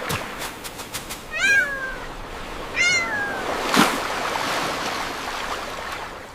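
A cat meowing twice, about a second and a half apart, each call rising and then falling in pitch, over a steady background hiss. A sharp knock comes shortly after the second meow.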